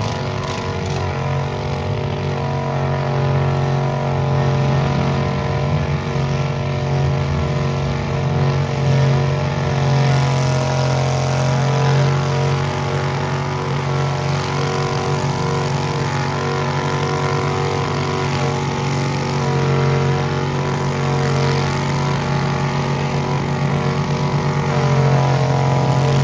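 Stock farm tractor engine running steadily at a constant pitch, holding one engine note throughout.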